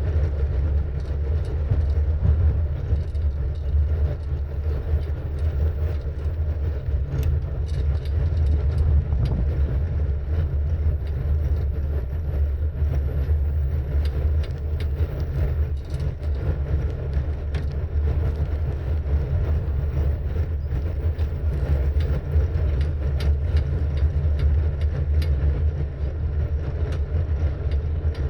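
Low, steady wind rumble on the microphone of a moving bike, mixed with tyre and road noise, with faint scattered clicks and ticks.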